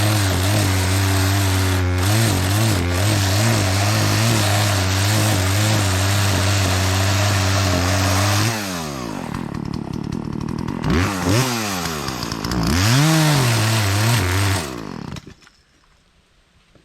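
Two-stroke chainsaw engine running steadily at high speed. About eight seconds in, its speed drops and rises unevenly several times, then the engine dies and stops, a stall the operator describes as the chainsaw taking a break.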